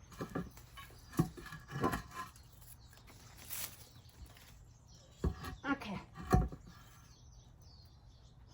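Irregular knocks, clunks and scrapes of a bird bath being handled, its bowl and parts set down and shifted, with the loudest knock a little after six seconds in.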